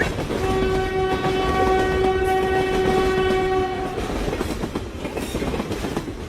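Train horn sounding one steady blast of about three and a half seconds over the rumble and clatter of a train running on the rails. After the horn stops, the running noise carries on.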